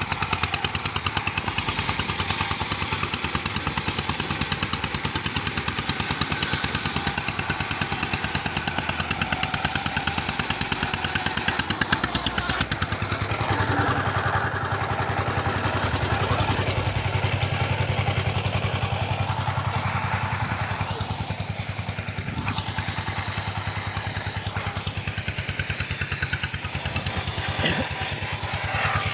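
A small engine running steadily throughout, its low note getting stronger and heavier from about halfway through for several seconds, as if under load.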